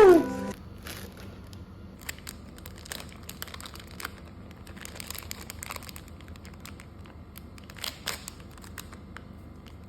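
A cat's meow sliding down in pitch at the very start. Then crinkling and tearing of plastic packaging being handled and opened, with scattered small clicks.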